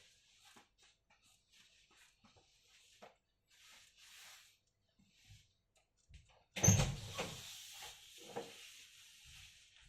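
Small clicks and handling rustles, then a louder knock about six and a half seconds in, followed by a couple of seconds of scraping rustle.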